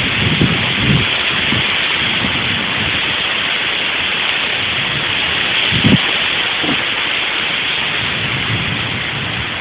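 Heavy rain pouring down in a tropical storm, a dense steady hiss. Low gusts of wind buffet the phone's microphone near the start and most strongly about six seconds in.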